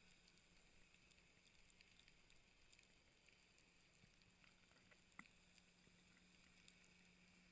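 Near silence: a faint steady low hum and hiss, with one faint click about five seconds in.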